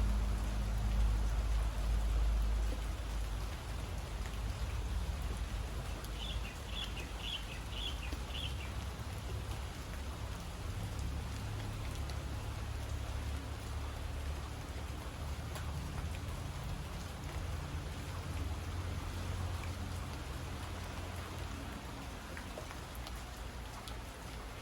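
Steady rain falling, with a low rumble in the first few seconds. About six seconds in, a bird calls five quick repeated chirps.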